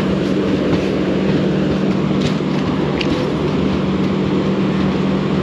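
Moving passenger train heard at its open doorway: a steady rumble of wheels on the rails with wind noise and a constant low hum, and a couple of faint clicks about two and three seconds in.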